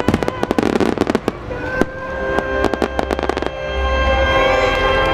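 A rapid string of sharp firework reports and crackles over the display's music soundtrack. The bangs come in two dense clusters and stop about three and a half seconds in, leaving the music playing.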